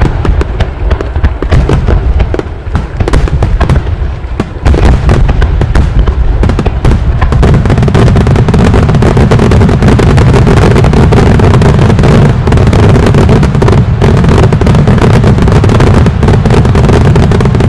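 Aerial fireworks bursting in rapid succession: a dense barrage of booms and crackles that thickens about five seconds in into a continuous, very loud rumble of overlapping bursts.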